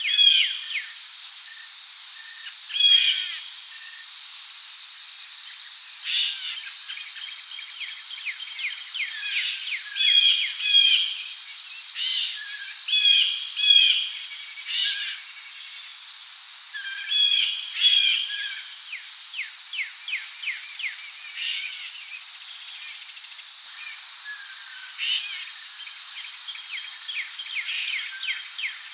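Rainforest ambience: a steady high-pitched drone of crickets and other insects, with birds calling over it in short repeated chirps every second or two.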